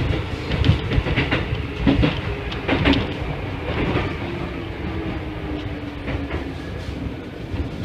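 Keikyu 1500 series electric train running, heard from inside the front cab: the wheels clack sharply over points and rail joints in the first few seconds, then settle into a smoother rumble with a faint steady whine through the middle.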